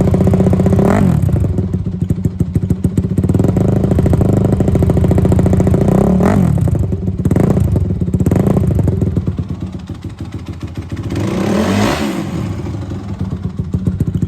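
2004 Honda CRF250R's single-cylinder four-stroke engine idling, with several short throttle blips that rise and fall back to idle.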